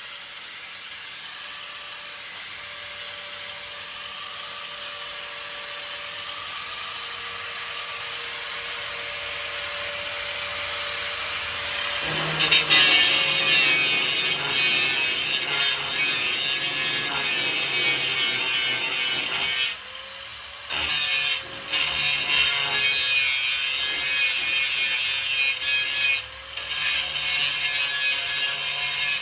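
Grinder running and grinding down welds on the truck's sheet-steel floor, with a steady motor tone under the grinding noise. The grinding grows louder over the first dozen seconds, then bites harder, and the disc lifts off the metal briefly a few times in the second half.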